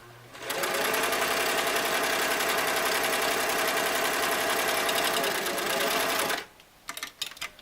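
Singer Model 337 sewing machine running at a steady speed, sewing a fine straight stitch through lightweight polyester. It starts about half a second in and stops about a second before the end, followed by a few light clicks.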